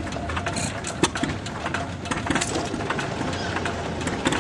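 An engine running steadily, with many irregular sharp clicks and knocks over it.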